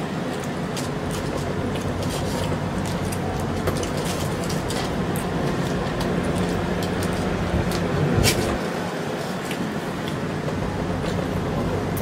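A person eating: chewing, with small wet mouth clicks and smacks scattered throughout and one sharper click about eight seconds in, over a steady rushing background noise.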